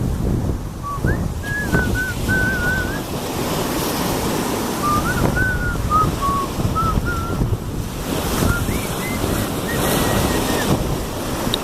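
Sea waves washing against the shore, with wind buffeting the microphone. A thin, wavering whistle comes and goes over it in several short runs.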